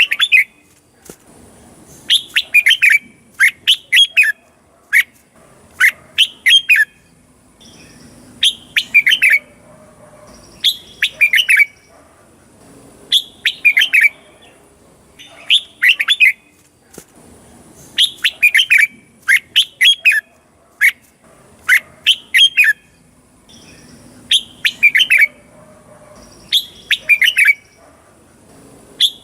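Red-whiskered bulbul singing: short, bright phrases of a few quick whistled notes, repeated about every two seconds.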